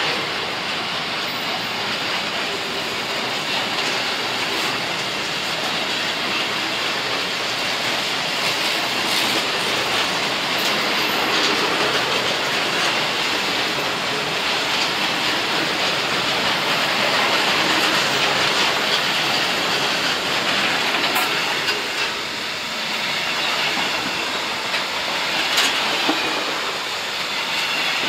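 Steel-train freight wagons rolling past close by: a steady noise of wheels on rail, with a few sharp clanks along the way.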